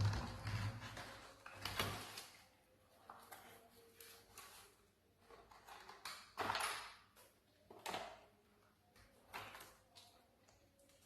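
Scattered light knocks and clicks of small objects being handled, a few seconds apart, with a faint low hum at the start.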